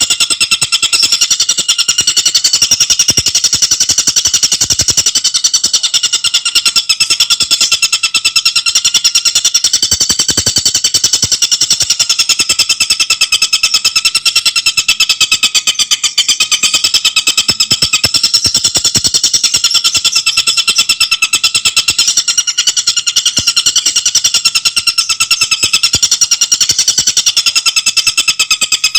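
Tengkek buto bird calling in a loud, unbroken, very fast rattling chatter, its pitch wavering slightly, with no pause.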